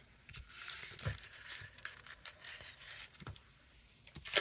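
Faint crinkling and rustling of foil booster packs being handled, with scattered light taps and one sharper tap near the end.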